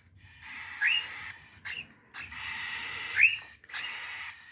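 Hand-fed juvenile cockatiels giving raspy, hissing begging calls, about three long calls each with a short rising chirp: the food call of hungry chicks wanting to be fed.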